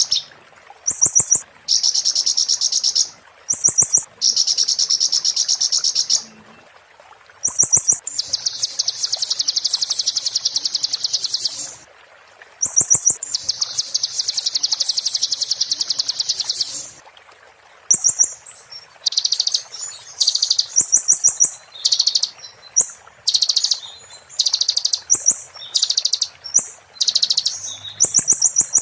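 A konin bird singing a shrill, very fast rattling trill, the song style called "muntah beling". It comes in loud bursts, two of them about four seconds long, then shorter, choppier phrases from about two-thirds of the way through.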